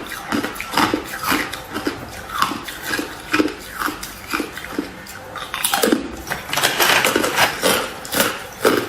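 Close-miked crunching of hard white ice being bitten and chewed, a crisp crunch roughly twice a second, packed into a denser run of crunching near the end.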